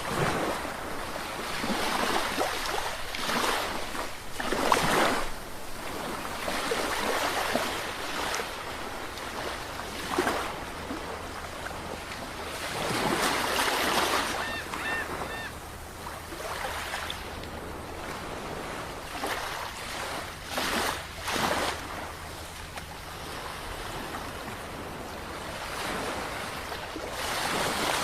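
Sea waves breaking and washing in, an irregular series of swelling rushes of surf every few seconds over a steady background of sea noise.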